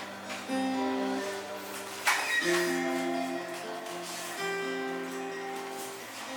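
Acoustic guitar playing a song's instrumental introduction, plucked notes and chords with a sharp strum about two seconds in.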